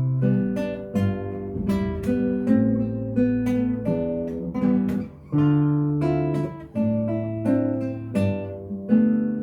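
Acoustic guitar music: plucked notes and chords, a new one every half second to a second, each ringing out and fading.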